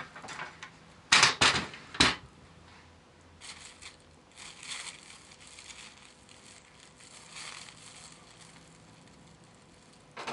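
Paper sewing pattern and fabric being handled on a table: a few sharp crinkles and knocks in the first two seconds, then soft scratchy strokes, typical of a marking tool drawing lines along the pattern.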